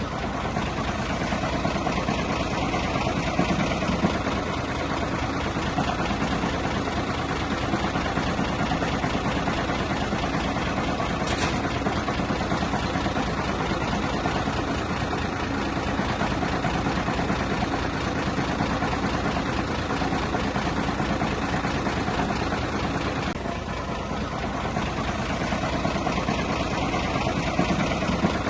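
Bulldozer's diesel engine running steadily, easing off briefly about three-quarters of the way through.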